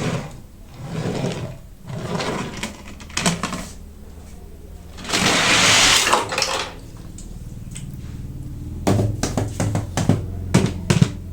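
Hands handling Hot Wheels packaging in irregular scrapes and taps. A longer, louder noisy burst comes about halfway through, and a quick run of sharp clicks and taps follows near the end.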